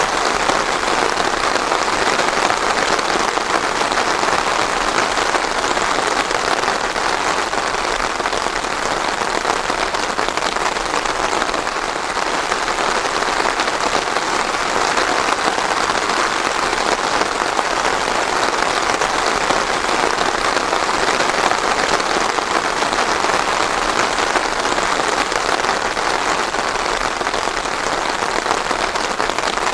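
Steady heavy rain falling on a surface, a dense even patter of drops without thunder.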